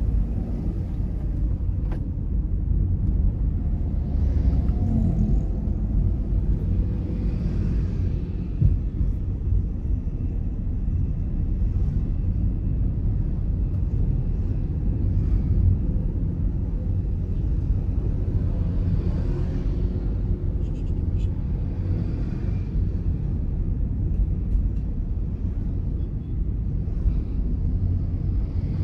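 Steady low rumble of a car being driven: engine and road noise, with faint swells of higher hiss now and then.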